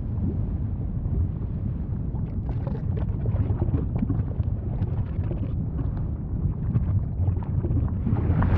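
Volcano rumbling low and steadily, with scattered crackles and pops through the middle, swelling louder near the end.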